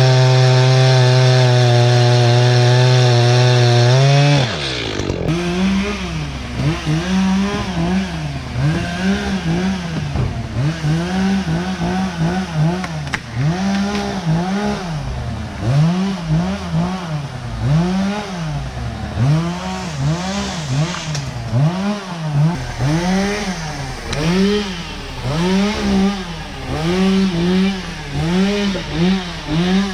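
An engine held at steady high revs for about four seconds, then revved up and down roughly once a second.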